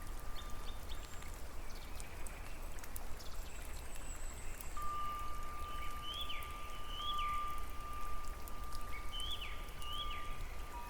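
Steady rain, with scattered drops ticking sharply. A thin, steady high tone runs through most of it, and short chirping calls that rise and then fall come in two pairs in the second half.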